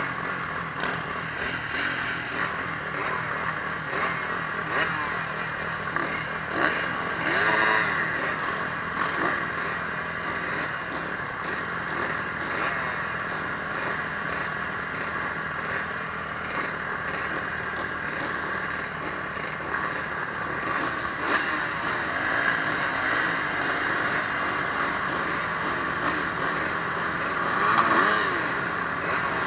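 Motocross bike engines running and revving, the pitch rising and falling again and again, with a louder rev near the end.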